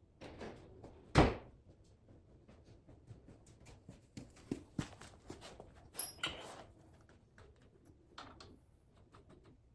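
Scattered knocks, clanks and scrapes of hand work on metal parts, the loudest a single heavy thunk about a second in.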